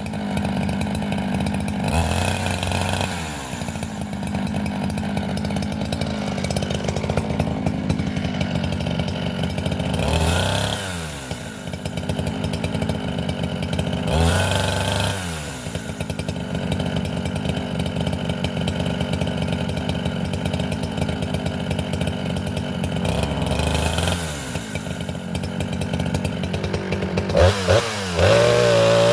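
Craftsman 3.7 two-stroke chainsaw cutting hard white oak at high revs, on a chain filed back with its rakers left high, at about 16 thousandths. The engine note dips and climbs back several times, and near the end rises sharply.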